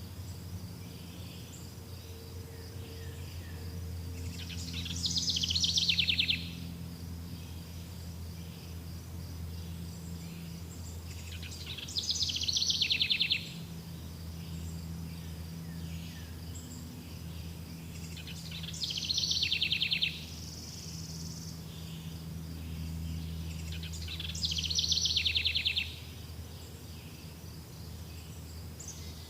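A songbird singing the same trilled song four times, about every six seconds; each phrase is a rapid trill that falls in pitch over about a second and a half. Under it runs a steady high insect chirring and a faint low hum.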